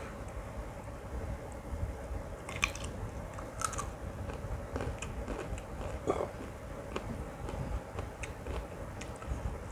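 Close-miked chewing and biting of a mouthful of mutton curry and biryani, with scattered wet smacks and small crunches. The loudest come about two and a half, three and a half, and six seconds in, over a steady low rumble.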